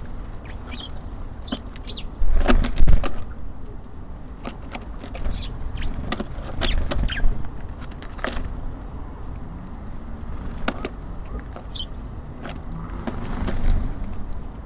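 Small birds at a feeder: repeated sharp taps and knocks of pecking and landing, with a few short high calls, over a steady low rumble of city traffic. The loudest knocks come about two to three seconds in.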